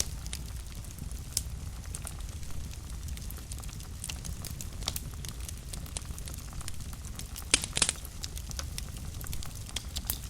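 Wood fire burning in a fireplace, crackling with scattered sharp pops over a low steady rumble; a louder cluster of pops comes about three quarters of the way through.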